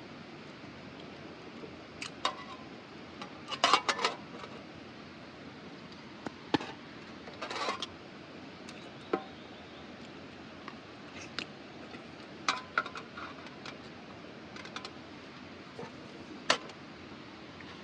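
Camping gear being handled: scattered small clicks, knocks and clinks, with brief rustles about 4 and 7 seconds in, over a steady faint background hiss.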